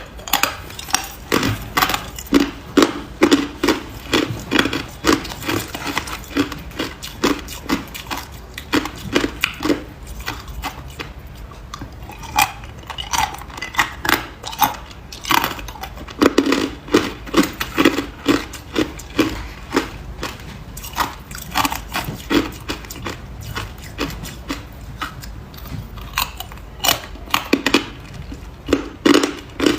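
Ice being bitten and chewed, a rapid run of sharp crunches and cracks that comes in clusters with short pauses between.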